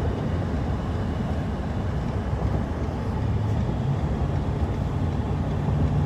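Steady low road and engine rumble inside a moving car. A low hum steps up in pitch about halfway through, as the car gathers speed.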